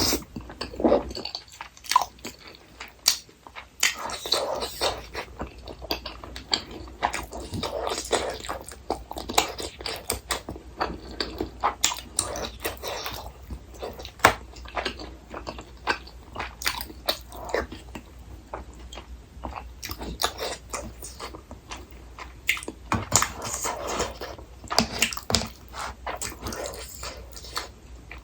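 Close-miked eating sounds: a person chewing and biting food, with many small irregular clicks that come in louder spells.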